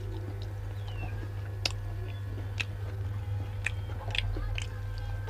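Close-up chewing and biting of food, with sharp crunchy clicks about once a second, over a steady low hum.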